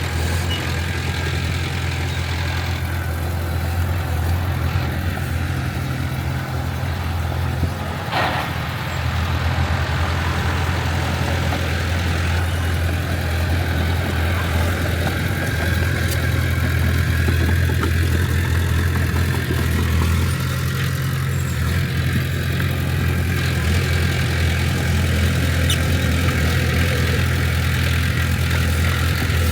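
Diesel engine of heavy earthmoving equipment running steadily, with a short knock about eight seconds in.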